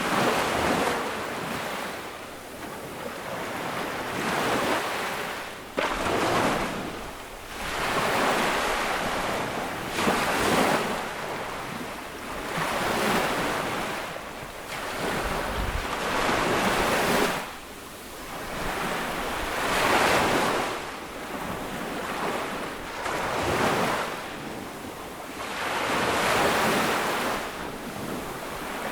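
Ocean waves breaking on a beach and washing up the shore, one surge after another every two to three seconds.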